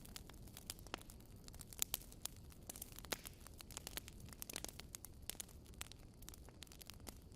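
Wood fire burning in a fireplace: many irregular crackles and pops over a low, steady rumble of flame.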